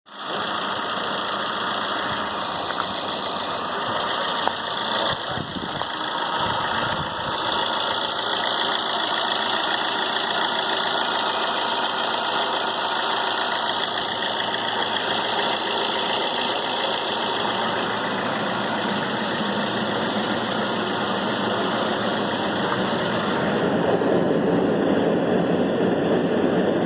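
Car engine running steadily at idle, with a dense hissing noise over it. A few clicks come early, and about three-quarters of the way through the sound turns lower and a little louder.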